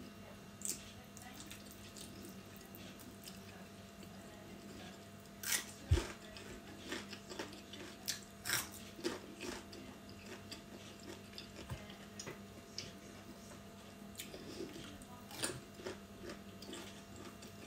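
Close-up eating sounds: a person biting and chewing raw vegetables and noodles, with crisp crunches of raw red bell pepper and wet mouth clicks, over a faint steady hum. A soft knock comes about six seconds in.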